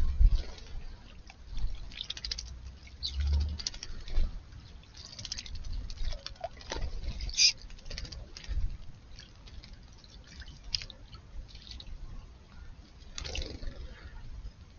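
Small birds, house sparrows, bathing in shallow water: irregular small splashes and drips.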